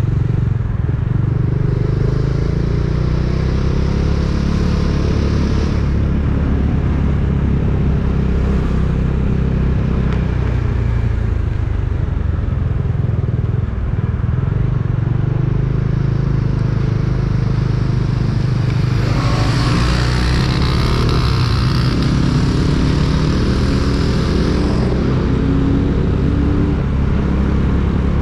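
Small engine running steadily at constant speed, with a rushing hiss that swells about two-thirds of the way in and eases off a few seconds later.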